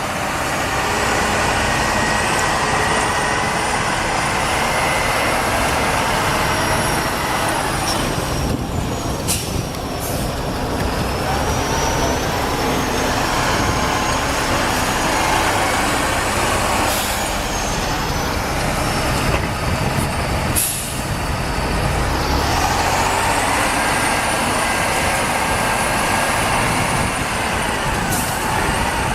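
Heavy Soviet diesel snow-clearing machines, T-150K tractors or T-170 bulldozers, running hard under load. Steady engine noise with a high whine that rises and falls in pitch.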